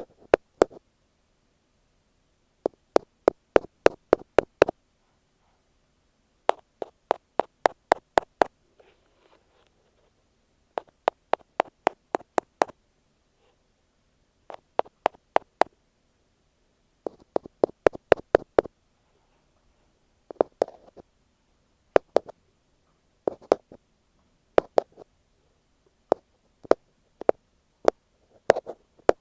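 Ear pick tapping on an earphone microphone: runs of crisp, quick taps, about five a second, each run lasting a second or two with short pauses between.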